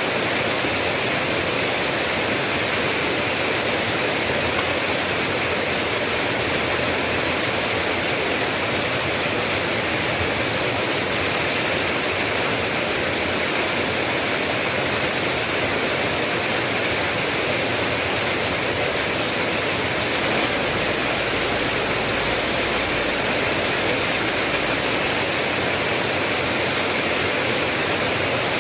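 Steady, even rainfall hissing without a break. A faint low rumble sits under it for a few seconds about two-thirds of the way through.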